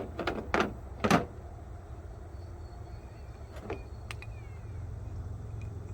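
Plumbing fittings being handled and screwed together: four sharp clicks and knocks in the first second, then a few faint taps about three and a half to four seconds in, over a steady low hum.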